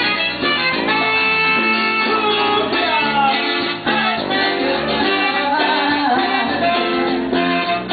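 Latin band music with guitar, an instrumental passage between the sung verses.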